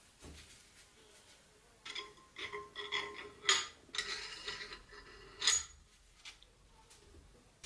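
Small hard metal pieces clinking and knocking together, a quick run of strikes with a short ringing tone, the two loudest about three and a half and five and a half seconds in.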